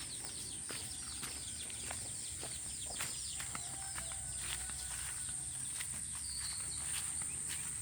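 Outdoor nature ambience: birds chirping in quick falling calls, densest in the first two seconds, over a steady high-pitched buzz, with scattered sharp clicks and a low rumble underneath.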